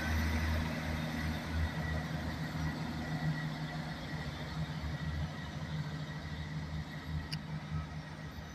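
Diesel train engine running with a steady low hum that slowly fades away. There is a brief click near the end.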